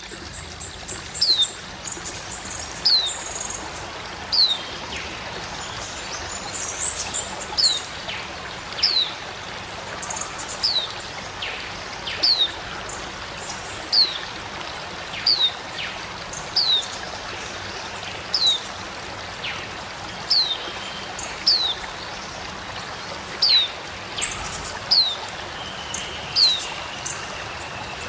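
A white-eye (pleci) repeating a short, high whistle that falls in pitch, about once every one and a half seconds, with a few faint higher chips between. A steady rush of running water lies underneath.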